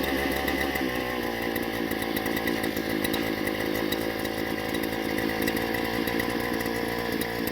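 Two-stroke engine of a gas-powered earth auger running steadily.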